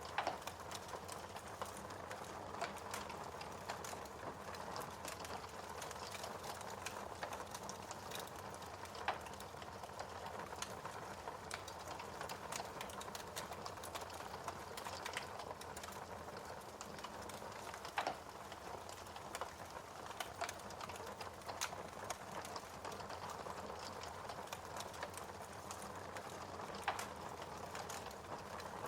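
Wood fire burning steadily, with continuous small crackles and an occasional louder pop about every nine seconds.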